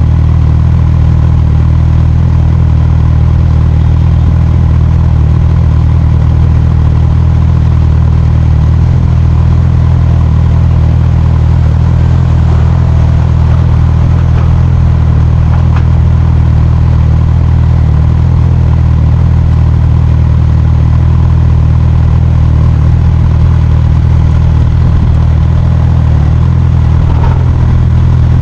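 Motorcycle engine running at a steady speed under way, a loud, even low drone that hardly changes.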